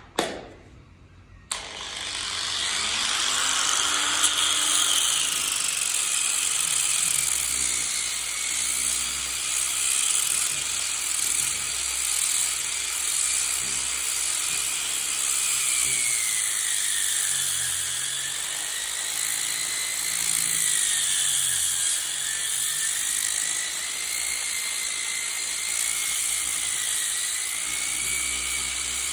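A high-speed handheld power tool starts about a second and a half in and runs steadily against wood, its high whine wavering in pitch as the load changes.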